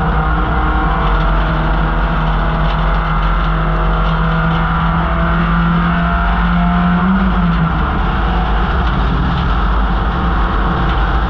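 1968 MGB GT's 1.8-litre B-series four-cylinder engine pulling hard under racing load, its pitch climbing steadily, then dropping sharply about seven and a half seconds in. Steady wind and road noise runs under it.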